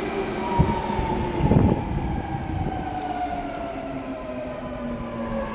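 BART train pulling into the station and slowing, its electric drive whine falling steadily in pitch over the rumble of the cars. Two low thumps come about half a second and a second and a half in.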